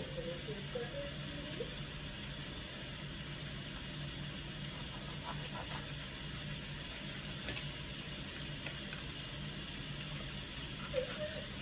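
Chicken pieces sizzling steadily in butter and oil as they sear in a pot on the stove, over a constant low hum.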